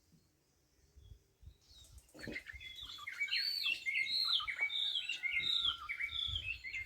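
Birds chirping: after a near-quiet first two seconds, many short, quick chirps overlap, growing louder about three seconds in.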